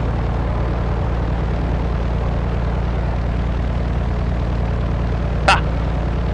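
1956 Cessna 172's Continental O-300 six-cylinder engine and propeller running at low power while taxiing, a steady low drone. A brief sharp blip sounds near the end.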